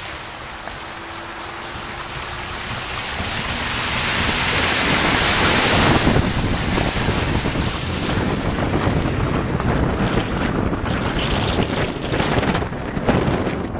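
Rushing floodwater, a steady noise that grows louder over the first six seconds or so, with wind gusting on the microphone.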